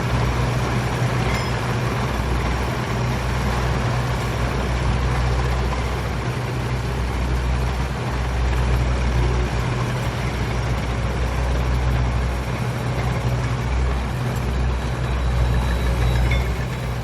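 Steady low engine rumble under an even wash of noise, like a large vehicle idling.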